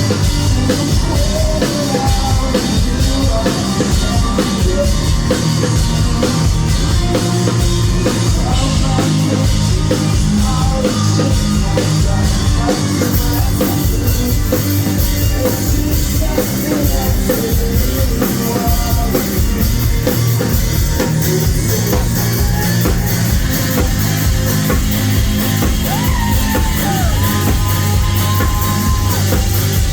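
A rock band playing live, loud and distorted as picked up by a phone: a fast steady drum beat, guitars and bass, with a voice singing or yelling over it.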